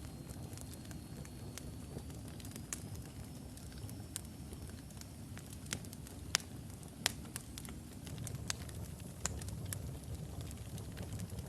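Wood logs burning in a fireplace: a steady low rumble of flame with irregular sharp crackles and pops, two louder pops a little past the middle. A faint thin whistle, rising slightly, runs through the first half.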